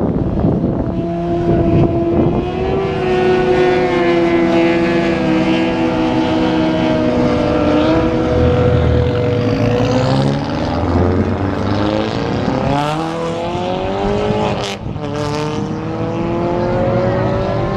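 Car engines and exhausts as cars pull away. One engine's pitch sinks slowly for several seconds, then from about ten seconds in the engines rev up with rising pitch, dip briefly near fifteen seconds and climb again as they accelerate.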